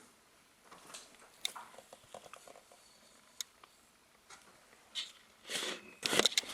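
Faint scattered rustles and small clicks of things being handled, with louder rustling near the end.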